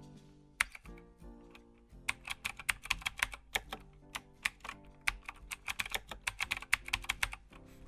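Quick, irregular typing on a computer keyboard, a few keystrokes early on and then steady bursts from about two seconds in, over soft background music.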